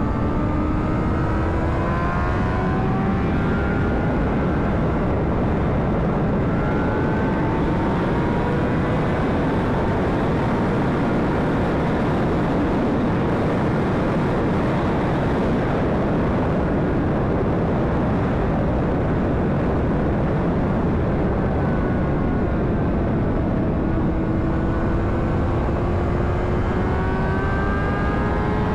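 Honda CBR600RR inline-four engine pulling under way, its pitch slowly climbing, heard through heavy wind rush on the rider's microphone. Through the middle the wind noise covers the engine, and near the end the engine note climbs again.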